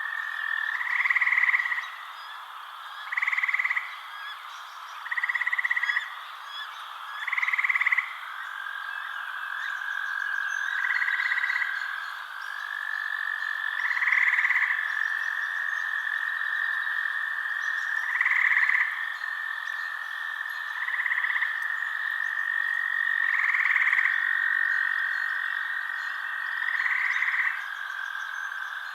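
Night frog chorus: a frog repeats a pulsed, trilling call of about a second, every two to three seconds, over a continuous steady trill and fainter chirping calls from other frogs.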